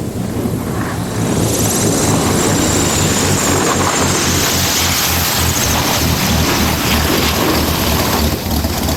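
Propeller aircraft engine running loud, mixed with heavy wind noise on the microphone, growing louder about a second and a half in.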